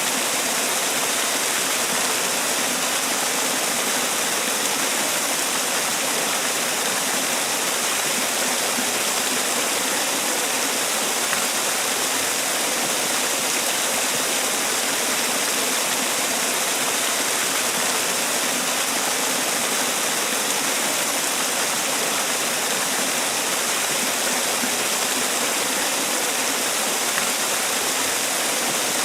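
Man-made waterfall: water falling and splashing in a steady, even rush, strongest in the hiss range.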